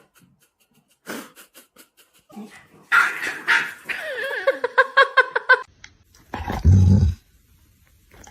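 A dog vocalizing: a long, wavering, warbling cry for a couple of seconds, then a short, loud, deep growl-like sound about six seconds in.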